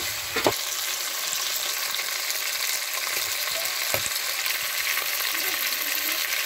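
Chicken pieces frying with browned onions in oil in an aluminium pot: a steady sizzle, stirred with a slotted metal spoon that knocks the pot briefly about half a second and four seconds in.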